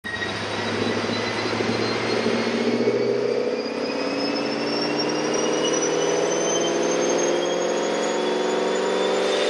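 Procharger-supercharged Chevrolet Camaro SS V8 making a pull on a chassis dyno: the engine note and the supercharger's high whine climb steadily in pitch together as the revs rise.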